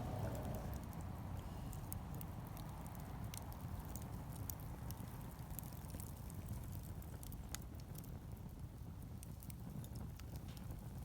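Wood fire crackling, with irregular sharp pops and ticks scattered a few times a second over a steady low rumble.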